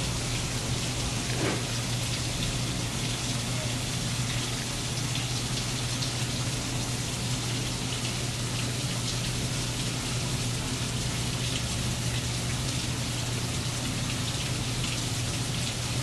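Steady rainfall, an even unbroken hiss of rain falling and hitting surfaces, with a low steady hum underneath.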